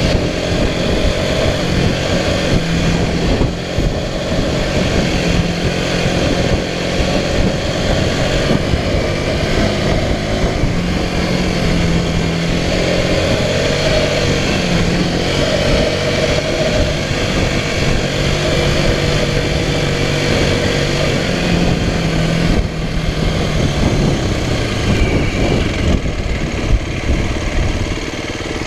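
Small off-road motorbike's engine running while riding a dirt trail, its note stepping up and down with throttle and gear changes, over a steady rushing noise.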